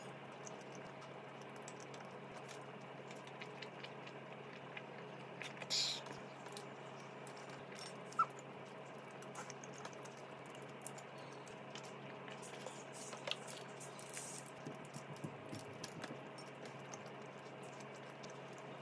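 Mouth sounds of someone eating a soft donut: scattered small chewing clicks and smacks over a steady low hum, with a brief rustle about six seconds in and a sharp click about two seconds later.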